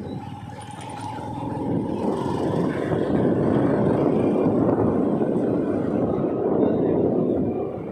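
Road and wind noise from a moving motorbike, growing louder from about two seconds in and holding steady until it drops away at the end.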